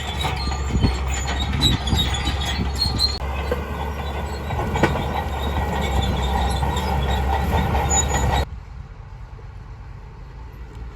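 Crawler bulldozer's steel tracks squealing and clanking over a steady diesel engine rumble. The sound cuts off sharply about eight and a half seconds in, and a quieter, steady engine sound follows.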